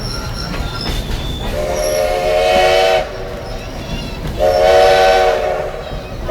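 Steam locomotive whistle blowing two long blasts, the first starting about a second and a half in and the second near the middle, with a third beginning at the very end, over the steady rumble of the moving train.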